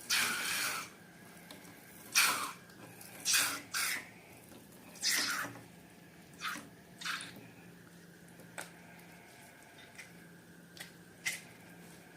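Wet slime squelching and squishing, about a dozen short, irregular squelches that are bigger in the first half and thin out to small clicks near the end.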